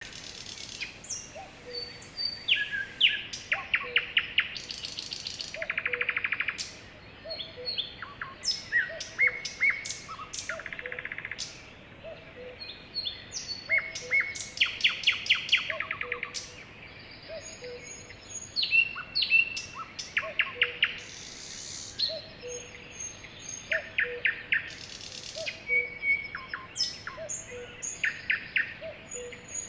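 Several birds chirping and singing in overlapping calls: quick trills, rapid runs of sharp notes and short whistled chirps. Under them runs a faint low note that repeats about once a second.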